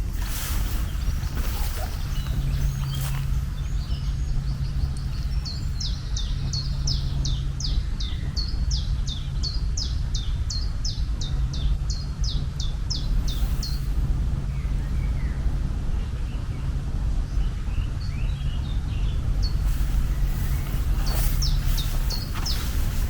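Birds chirping in short, quick high calls, about two a second for several seconds, then again near the end, over a steady low rumble and hum.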